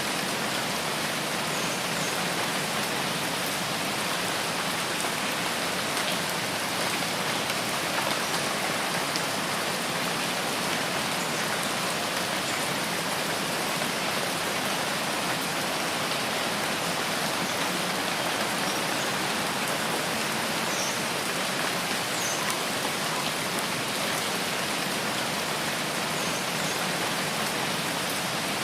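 Steady rainfall: a dense, even hiss of drops falling on leaves and ground, holding at the same level throughout.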